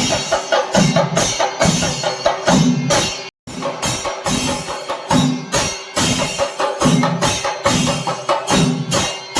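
Kerala chenda melam: an ensemble of stick-beaten drums playing a fast, driving rhythm. The sound breaks off for an instant about a third of the way in, then resumes.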